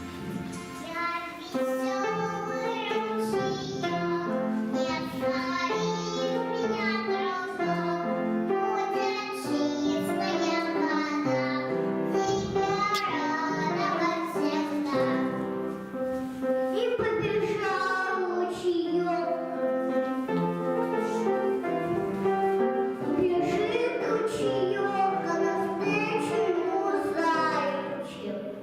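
Children singing a song over instrumental backing music.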